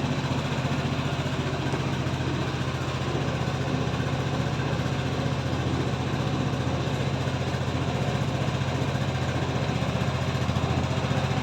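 Easyride 150Fi motorcycle engine idling steadily, freshly cold-started after sitting unused for two days and running without trouble.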